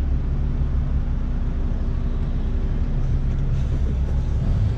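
Truck's diesel engine running steadily under way, a continuous low drone heard from inside the cab.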